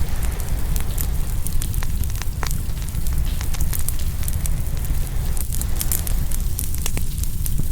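Open wood fire crackling, with frequent sharp, irregular pops over a steady low rumble.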